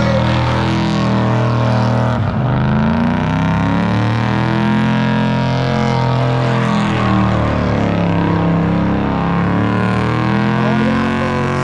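383 cubic-inch Chrysler big-block V8 revving hard through a burnout, rear tyres spinning. The engine note keeps swinging down and back up, with a sharp drop about two seconds in.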